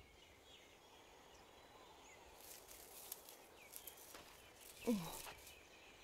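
Faint outdoor ambience of birds chirping, with short high chirps scattered throughout and one louder sound sliding down in pitch about five seconds in.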